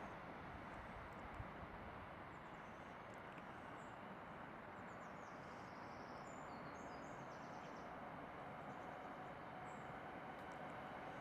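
Quiet railway station ambience: a faint steady background rumble and hiss, with faint bird chirps in the middle and a faint steady tone coming in near the end.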